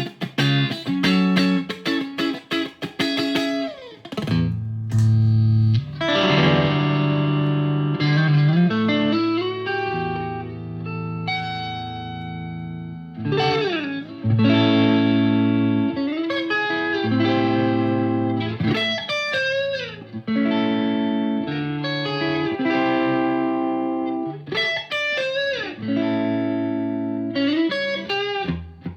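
Fender American Vintage '62 Custom Telecaster electric guitar played through an amplifier: quick picked single-note runs in the first few seconds, then ringing chords and bent lead notes.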